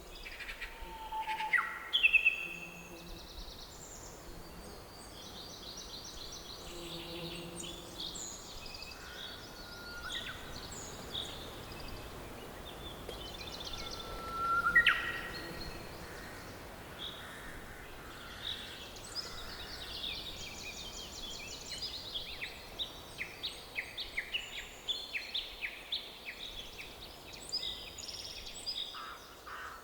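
Several songbirds singing and calling together: varied chirps, trills and whistles, with a loud rising call about two seconds in and another about halfway, and a quick string of repeated chirps through the second half.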